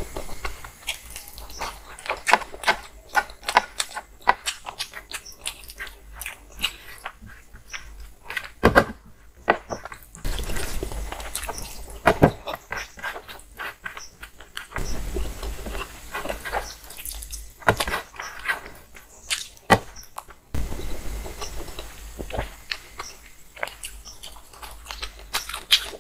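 Close-up eating sounds: chewing and wet lip-smacks of a person eating rice and fish curry by hand, with many quick mouth clicks and fingers squishing and scraping rice together on a plastic plate.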